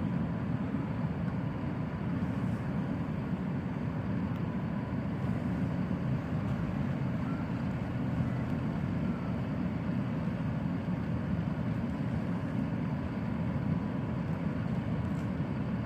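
Steady low outdoor rumble with no distinct events, and a faint steady tone in the background.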